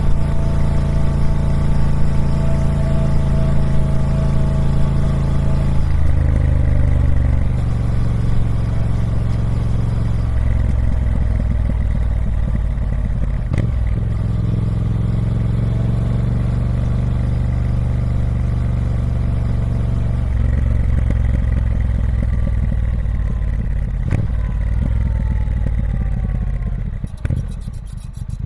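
Triumph Speed Twin 1200's 1200cc parallel-twin engine running on its stock exhaust at steady revs, its note stepping down about six seconds in and again about twenty seconds in. Its pitch then falls steadily before dropping to a low, uneven beat near the end.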